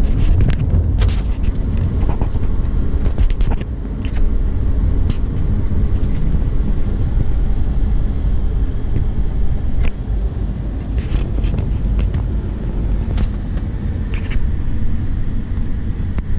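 Lamborghini Huracán's V10 engine rumbling low, heard from inside the cabin as the car drives slowly and its automatic gearbox steps down through the gears. There are occasional short clicks over the rumble.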